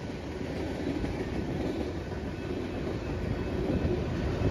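Freight train cars (flatcars, covered hoppers and tank cars) rolling past at a grade crossing: a steady rumble of steel wheels on the rails, getting a little louder near the end.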